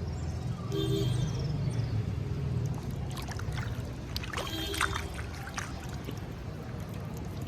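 Shallow water trickling and splashing over a steady low rumble, with a brief higher tone about a second in and again near the middle.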